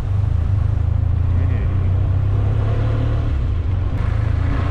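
Motorcycle engine running steadily at low speed, a constant low drone.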